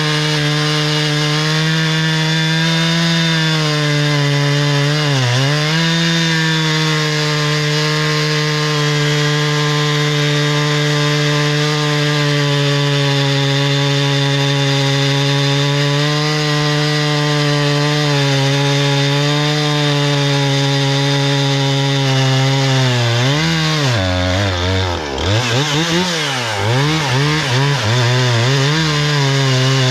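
Husqvarna 460 Rancher two-stroke chainsaw running at high revs while cutting poplar, its pitch steady. The pitch dips briefly about five seconds in, then drops and recovers several times near the end.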